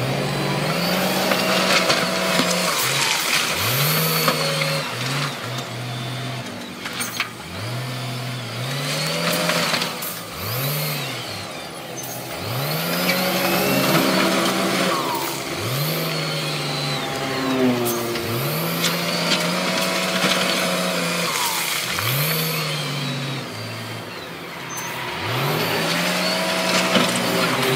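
Diesel engine of a heavy earthmoving machine revving up, holding and dropping back again and again, roughly every two to three seconds, as it works under load. A few sharp knocks come through now and then.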